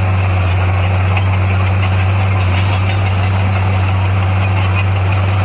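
Diesel engine of heavy road-building machinery running steadily at a constant speed, a deep even hum with no changes in pitch or load.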